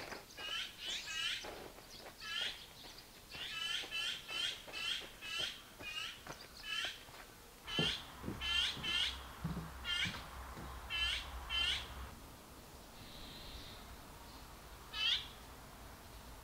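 A bird calling over and over in short, sharp chirps, one or two a second, which stop about twelve seconds in; a single chirp follows near the end.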